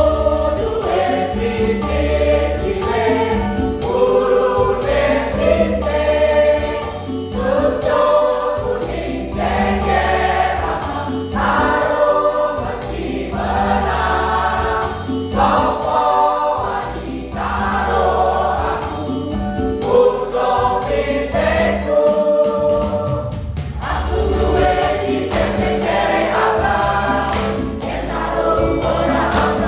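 A choir rehearsing a song, many voices singing together in phrases a second or two long.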